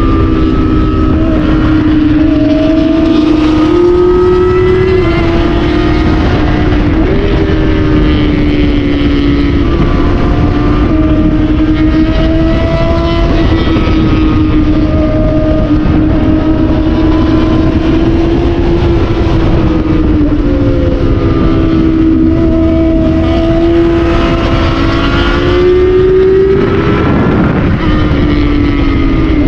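600 cc inline-four sportbike engine running hard on a canyon ride, its pitch rising and falling with throttle and gear changes and dipping near the end. A constant rush of wind noise sits under it.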